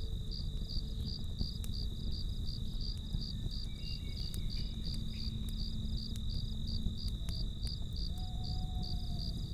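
Crickets chirping in a steady high pulsing trill, about four pulses a second, over the low rumble of a campfire with scattered sharp crackles and pops.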